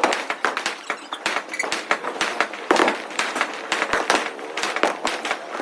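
A Mother India 10,000-wala firecracker string going off in rapid, irregular bangs, several a second.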